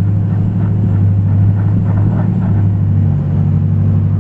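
Ford 6.0 Powerstroke turbodiesel V8 running hard under heavy towing load, a steady low drone that shifts slightly about three seconds in, while its rear tires spin on dry blacktop.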